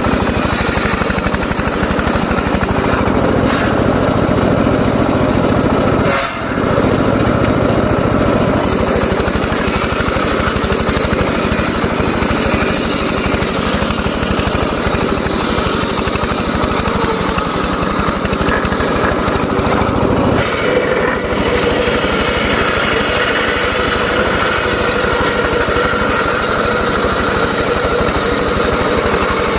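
Homemade circular saw running and cutting johar wood: a loud, steady mechanical din, with a brief dip about six seconds in.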